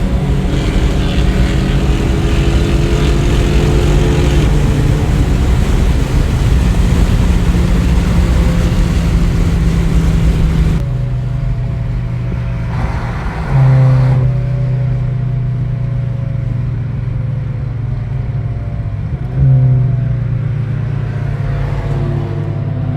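A car engine and road noise heard from inside a moving car. About eleven seconds in, the rush of road and wind noise drops away abruptly and the engine carries on at a steadier, lower level. It rises briefly twice, near fourteen and twenty seconds, in short bursts of throttle.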